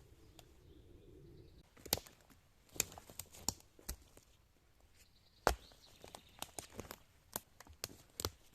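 Irregular sharp cracks, snaps and crunches, like dry twigs and leaves being stepped on or handled, starting about two seconds in after a faint steady hum.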